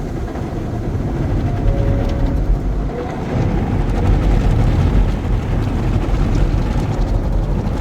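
Automatic car wash machinery heard from inside the car's cabin: a loud, steady rumble with a hiss of water spray over it.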